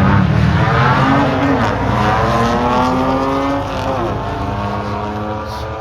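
Drag racing cars accelerating hard down the strip. The engine note climbs, drops at each gear change and climbs again, growing fainter as the cars pull away.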